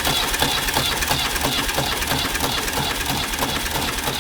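Ford 555 backhoe's diesel engine cranking steadily on the starter with fuel on. At least one cylinder fires and helps the starter along, but the engine never catches and runs. The owner blames worn piston rings, with heavy blow-by.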